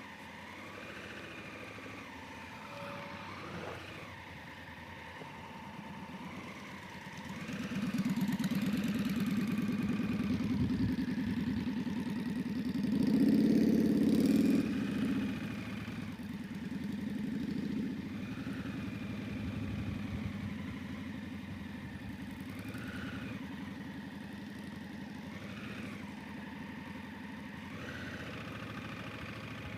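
Motorcycle engine running, growing louder about a quarter of the way in, loudest around the middle, then settling back to a steadier hum.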